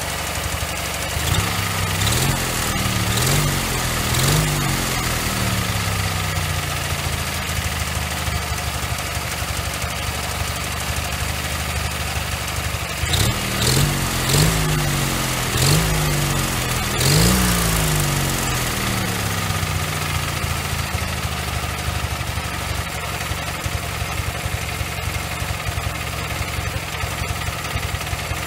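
Ural motorcycle's opposed-twin engine, built from defective parts, running steadily just after its first start, without knocking or rattling. It is revved up and back down in several short blips a few seconds in and again in the middle.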